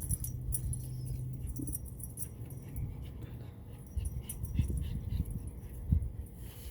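A dog making small sounds over a steady low rumble.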